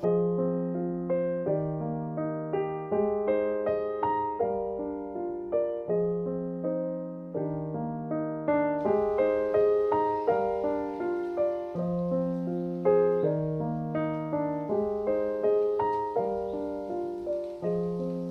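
Gentle piano music: a flowing pattern of struck notes that fade away, over slow low bass notes that change about every second and a half.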